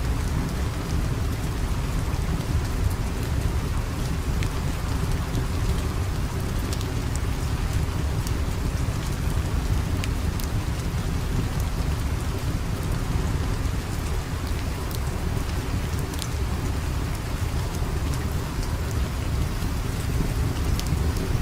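Steady heavy rain with a constant low rumble underneath and scattered sharp ticks.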